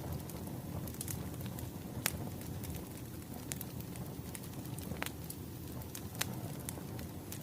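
Wood fire burning with a steady low rumble and occasional sharp, irregular crackles and pops from the burning logs.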